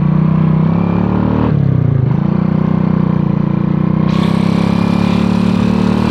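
Honda Astrea Grand's small single-cylinder four-stroke engine running steadily while riding. About a second and a half in, its pitch drops briefly and climbs back.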